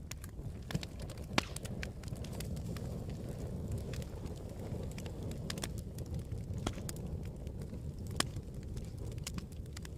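Campfire burning: a steady low rumble of the flames with scattered sharp crackles and pops from the burning wood, two louder pops standing out about a second and a half in and near the end.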